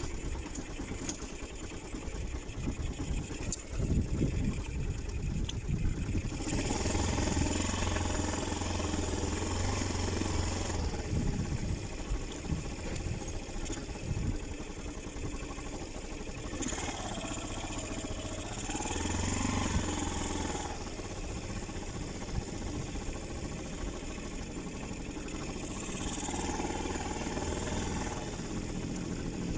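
Motorcycle engine running during a ride, louder in a few stretches: about six seconds in, around nineteen seconds and near the end.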